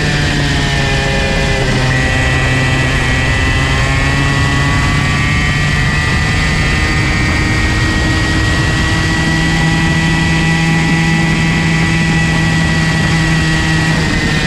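Comer C50 two-stroke kart engine running hard at high revs. Its pitch dips about a second in, then holds fairly steady.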